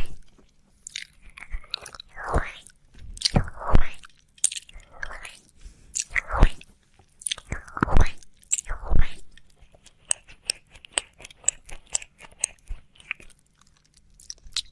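Close-up wet mouth sounds of ASMR ear licking: about six separate wet licks in the first nine seconds, then a run of small quick mouth clicks from about ten seconds in.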